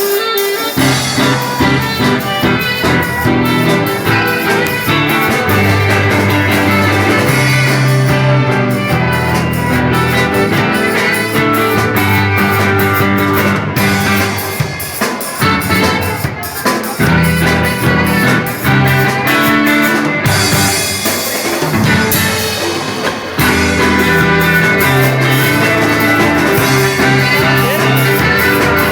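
Live band playing a jam: drum kit keeping a steady beat under a bass line, with saxophone and other instruments on top.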